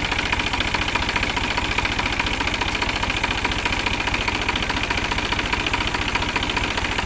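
New Holland 47 hp tractor's diesel engine idling steadily with an even, rapid firing beat, while a carbon-cleaning additive is being fed into it.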